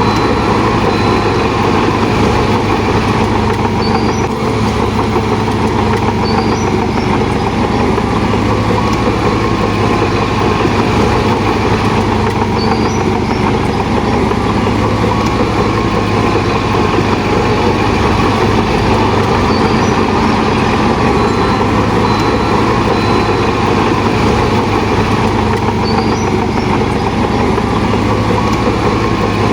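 Heavy diesel engine of a Shantui DH17 bulldozer running steadily at a constant pitch, with a few faint short high chirps over it.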